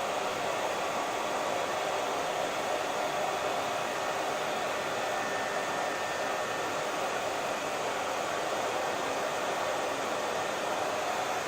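Electric hair dryer running steadily, a constant rushing whoosh of blown air and motor hum that does not change.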